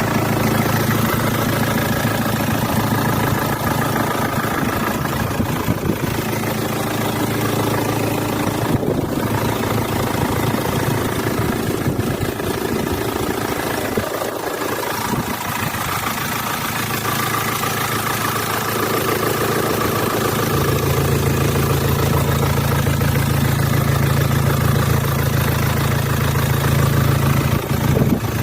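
2004 Hyundai Santa Fe engine idling steadily. About 20 seconds in, its low steady hum steps up in strength and pitch and then holds.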